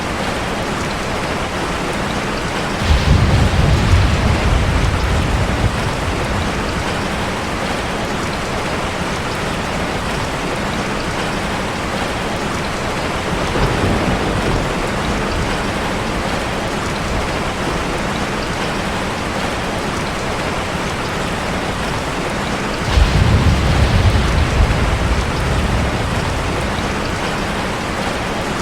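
Heavy rain falling steadily on a car, with low thunder rumbling once a few seconds in and again about three-quarters through, each roll lasting a few seconds, and a fainter rumble between them.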